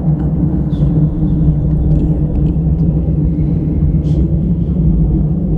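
Steady low rumbling drone with a held hum, unchanging throughout, and a few faint ticks above it.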